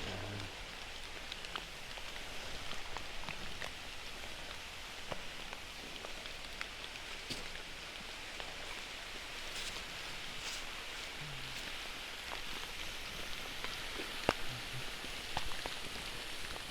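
Steady rain falling, a continuous hiss with scattered individual drops ticking sharply close by.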